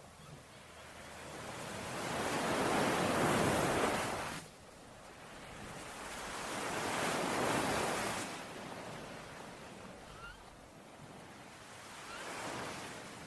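Sea waves washing onto a shore, three swells of surf that rise and fall away, the first ending abruptly. A few faint short bird chirps come near the end.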